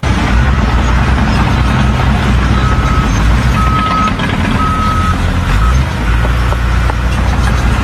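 A heavy vehicle's engine running with a loud low rumble, while its reversing alarm beeps about once a second for several beeps in the middle.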